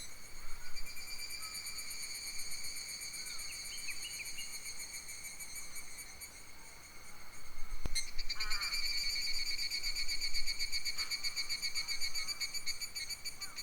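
A steady, high-pitched, finely pulsing insect chorus of the summer forest. It thins out about six seconds in, then comes back louder right after a single sharp click near the middle. A few short bird chirps break in here and there.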